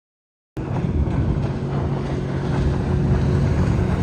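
Motorboat under way: a steady engine drone mixed with wind and rushing water, cutting in abruptly about half a second in. The engine note rises slightly near the end.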